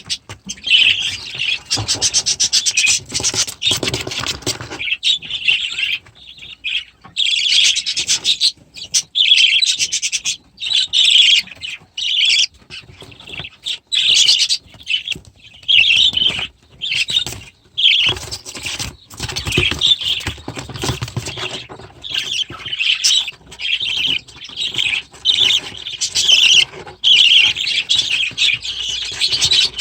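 Aviary birds chattering, chirping and squawking almost continuously in short, overlapping bursts of high calls.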